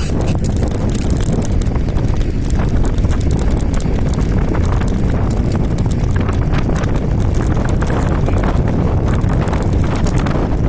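Ride noise from an electric scooter with a hoverboard hub motor under way: a heavy low rumble of wind buffeting the microphone, with a dense, irregular clatter of small clicks and rattles.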